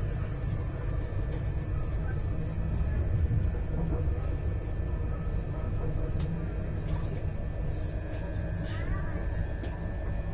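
Moving passenger train heard from inside the carriage: a steady, loud low rumble of the wheels running on the track, with a high hiss over it for the first few seconds.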